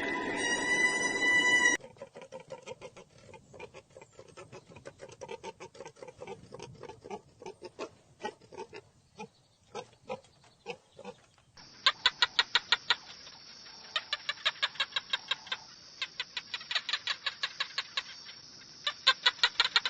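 Chickens clucking: a scatter of short, irregular clucks, then from about halfway a fast, even run of sharp calls, several a second. A different, held pitched sound ends abruptly just before the clucking starts.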